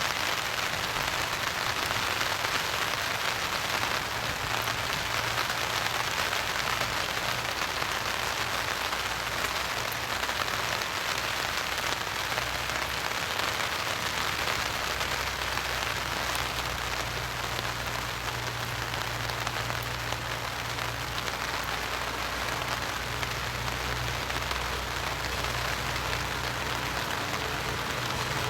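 Steady rain falling, an even hiss of drops on surfaces, with a low steady hum underneath that grows stronger about halfway through.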